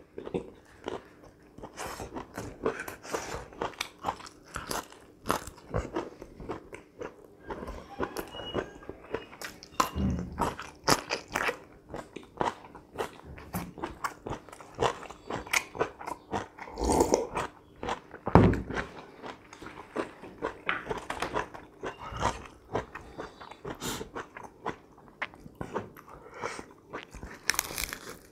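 Close-miked eating: crunchy bites and wet chewing of broccoli florets, fried chicken and lettuce wraps, with a few louder low gulps of beetroot juice about halfway through.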